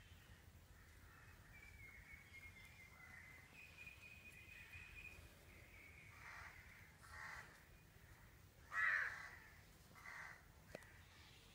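A bird calling outdoors: four short calls in the second half, the third much the loudest, after a thin high whistle-like tone earlier on.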